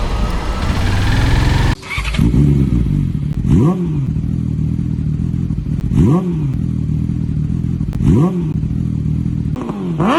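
Motorcycle engine pulling under acceleration with wind noise, its pitch rising steadily, then cutting off abruptly to a steady idle. At idle the throttle is blipped several times, about once every two seconds, each rev rising sharply and falling straight back.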